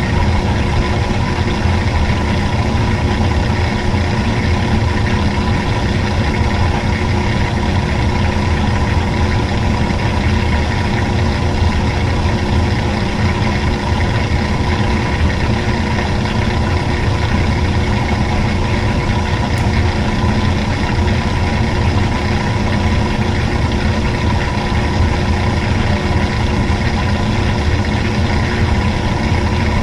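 Old-style washing machine running, its motor giving a loud, steady hum with a low rumble.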